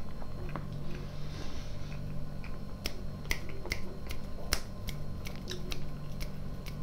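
A man chewing a mouthful of food with his mouth closed: wet mouth clicks and lip smacks at irregular intervals, thickest in the middle, over a steady low hum.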